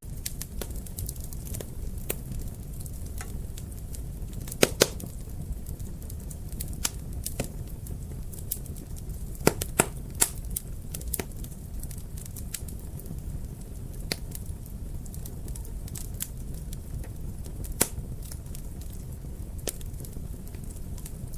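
Wood fire crackling in a fireplace: irregular sharp pops and snaps over a steady low rumble of the flames. The loudest pops come in clusters about five and ten seconds in.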